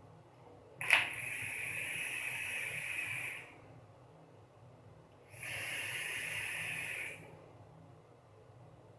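Two puffs on a rebuildable atomizer with 0.6 mm (22-gauge) Lightning Vapes wire coils: a steady hiss of air drawn through the atomizer as the coil fires. The first starts with a sharp click about a second in and lasts about two and a half seconds; the second lasts about two seconds.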